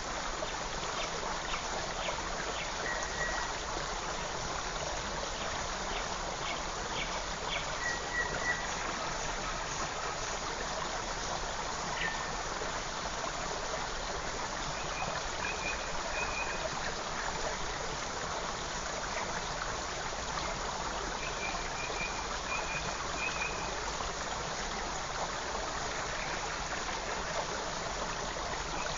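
Small forest creek flowing steadily over stones, with a few short, faint bird chirps laid over it now and then.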